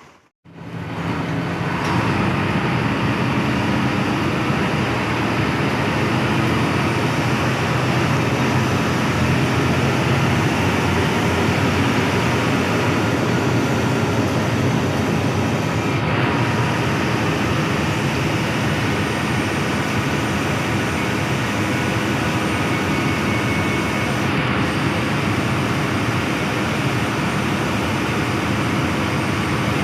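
Steady drone of a Hino AK8 bus's front-mounted engine and running noise, heard inside the passenger cabin.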